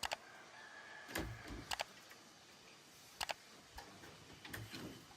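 A handful of sharp, irregular clicks and taps, several coming in quick pairs, over a faint steady hiss.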